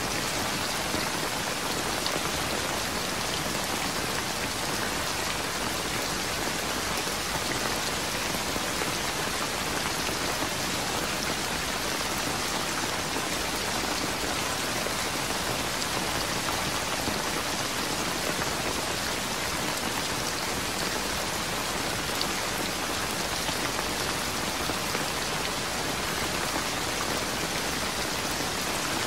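Steady, heavy rain falling, an even hiss with no thunder.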